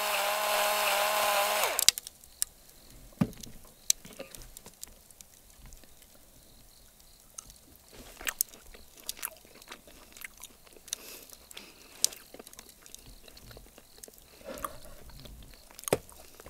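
A steady mechanical whir, like a small motor, that cuts off abruptly about two seconds in, followed by quiet eating: chewing of grilled beef with scattered clicks and taps.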